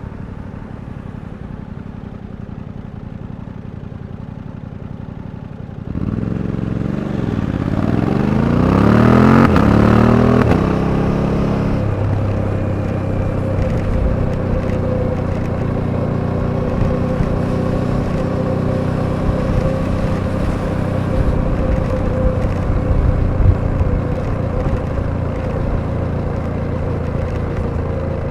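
Suzuki V-Strom 800DE's parallel-twin engine running steadily at low load, then about six seconds in the throttle opens and the revs climb for about four seconds before a gear change, after which the bike settles into a steady cruise.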